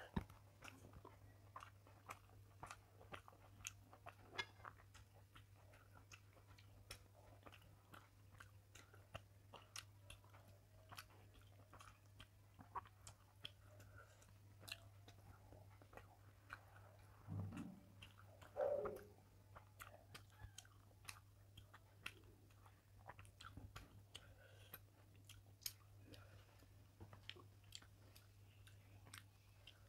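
Close-miked chewing of rice and small fish: soft wet clicks and smacks from the mouth, scattered and irregular, with a short louder mouth sound a little past halfway. A faint steady electrical hum sits underneath.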